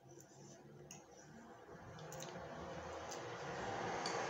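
Close-up chewing of soft food, with wet mouth clicks. A hiss swells steadily louder through the second half.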